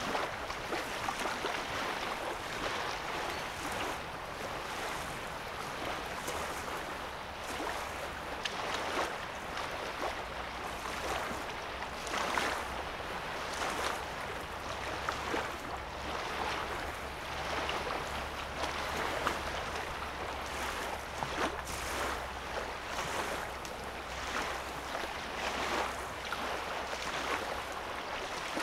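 Small lake wavelets lapping at a sandy shoreline: a continuous wash of water with frequent small splashes. From about six seconds in, a low steady hum runs underneath until near the end.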